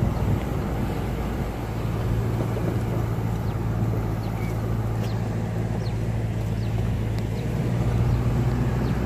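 Car engine running with a steady low hum, heard from inside the cabin while driving slowly along a rough dirt track.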